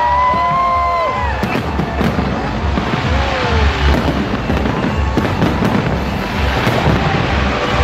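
Fireworks display going off: repeated deep booms of bursting shells with crackling between them, and a few short gliding whistle-like tones in the first second or so.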